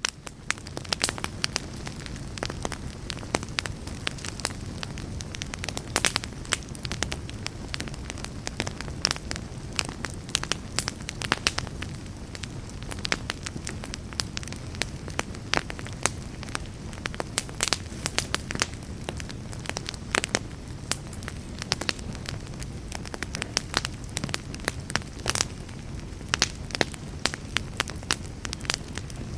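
Campfire burning, the wood crackling and popping irregularly over a steady low rush of flames.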